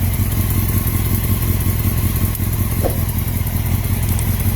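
Sport motorcycle engine idling steadily while warming up. The owner wonders whether its sound points to an exhaust leak or is normal.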